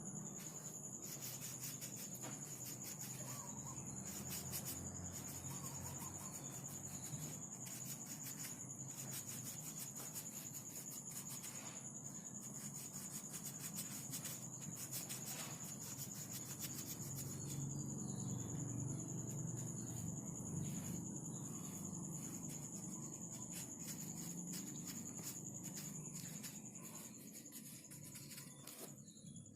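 Coloring strokes rubbing back and forth on paper as a picture is filled in, in a long run of repeated short strokes, over a steady high-pitched tone.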